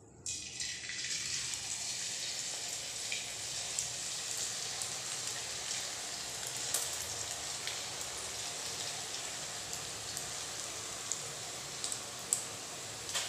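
Potato sev dough frying in hot oil in a kadhai: a steady sizzle that comes in as the first strands drop from the sev maker, with scattered small pops and crackles.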